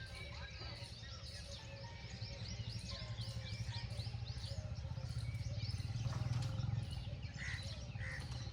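Birds chirping in quick, repeated calls over a steady low hum that swells briefly about six seconds in.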